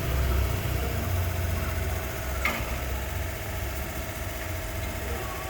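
An engine idling with a steady low rumble and hum, with one sharp click about two and a half seconds in.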